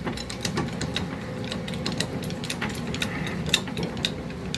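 Hand-pumped jack being worked to raise one side of a tractor: a run of quick, irregular metallic clicks and ratcheting as the handle is pumped.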